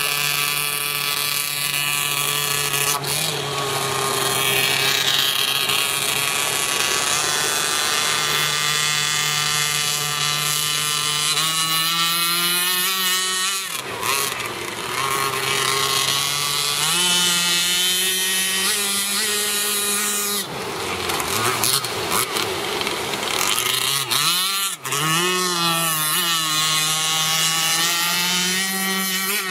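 The 26cc Zenoah two-stroke gasoline engine with tuned exhaust of an RC racing boat runs steadily, then revs up and down several times as the throttle changes. It drops away briefly about halfway through and again near the end.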